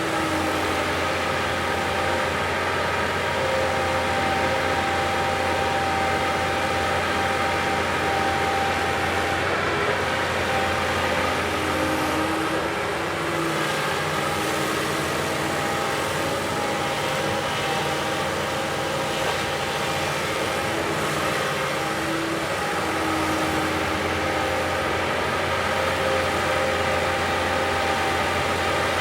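Heavy earthmoving machine's diesel engine running steadily, with small shifts in pitch partway through.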